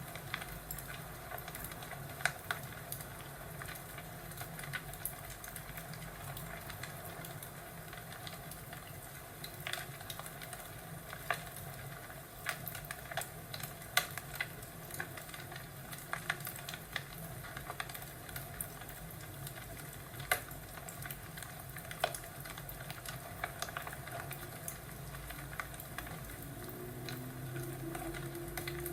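Wood fire crackling in a fireplace: a steady hiss broken by irregular sharp pops and snaps.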